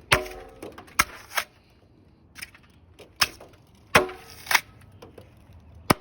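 Irregular sharp knocks and clanks from the cut-open sheet-metal jacket of a water heater being handled, about eight in all, two of them ringing briefly with a metallic tone.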